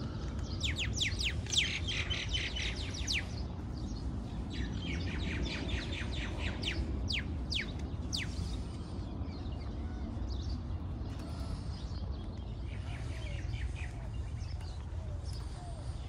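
Wild birds chirping in trees: bursts of rapid, high, downward-sweeping chirps near the start and in the middle, a fainter burst later, and faint short lower calls repeating in the second half, over a steady low rumble.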